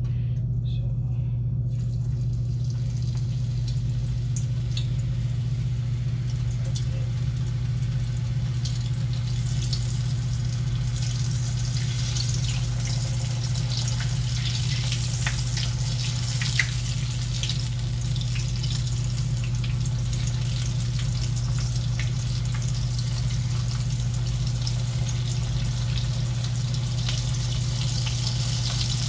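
Potato tacos in corn tortillas frying in shallow hot oil in a skillet: a crackling sizzle with small pops starts about two seconds in and thickens as more tacos go into the pan. A steady low hum runs underneath.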